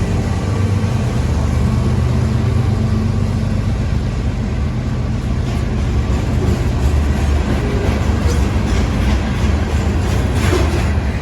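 CSX freight train passing, with the low, steady hum of its GE ES44AH diesel locomotives. From about halfway in, a run of sharp clacks joins it, loudest near the end.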